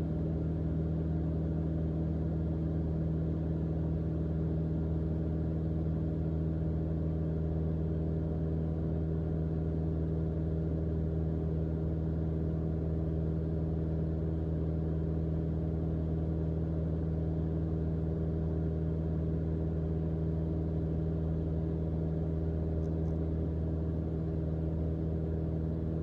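Steady drone of a 1984 Mooney M20J's four-cylinder Lycoming engine and propeller at constant cruise power, heard from inside the cockpit.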